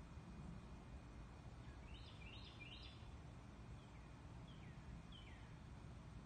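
Faint small-bird calls over a steady low background rumble: three quick chirps about two seconds in, then three short downward-slurred notes.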